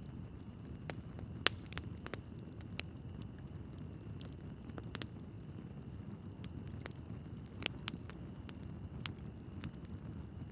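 Wood fire burning in a fireplace: a low steady rumble of flames with scattered sharp crackles and pops from the logs, the loudest about a second and a half in and again near eight seconds.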